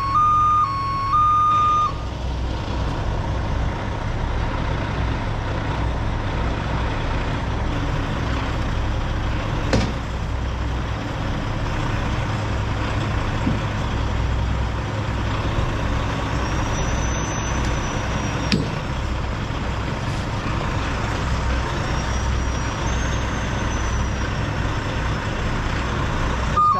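Heavy truck diesel engine running steadily under load during a winching recovery. A two-tone alternating warning beeper sounds for the first two seconds and then stops. A few sharp clicks and a faint whine that rises and cuts off can be heard partway through.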